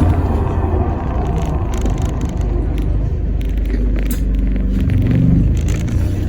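Inside an Alexander Dennis Enviro400 MMC hybrid double-decker bus on the move: a steady low rumble of the drivetrain and road noise. A low engine note swells for about a second near the end.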